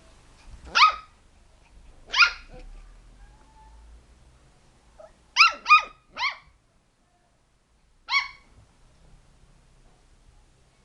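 Dog barking: six short, high-pitched barks, two spaced apart, then a quick run of three, then one more.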